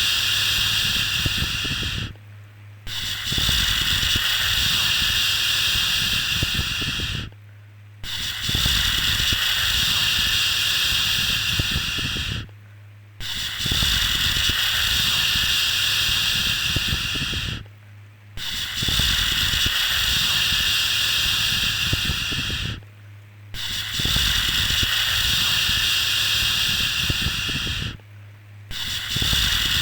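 Long, steady "shhh" shushing sounds repeated over and over, each held about four and a half seconds with a short pause for breath between them.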